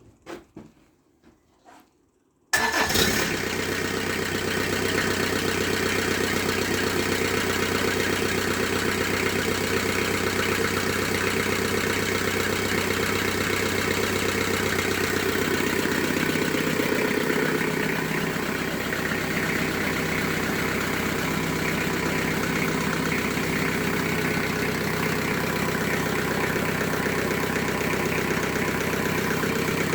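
Kubota V1505 four-cylinder diesel engine starting about two and a half seconds in, catching at once, then running steadily; a little past halfway its level drops slightly as it settles. A few faint clicks come before the start.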